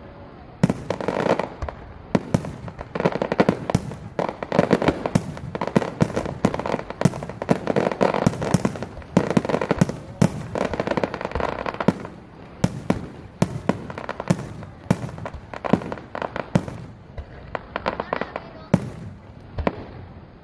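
Fireworks display at its finale: a rapid barrage of shell bursts, several bangs a second over a continuous crackling haze, thinning to fewer, quieter bangs in the last third.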